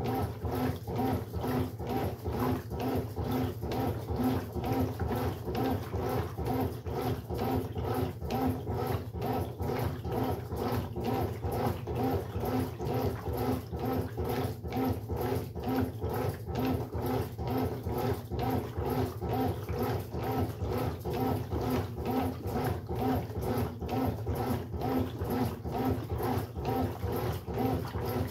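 Brastemp Sexto Sentido 8 kg washing machine running, a steady motor hum with an even pulse of about two or three beats a second.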